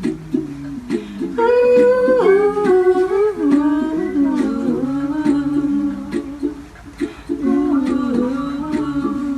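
A melody hummed without words over plucked ukulele. The humming comes in about a second and a half in, dips away around seven seconds, and picks up again.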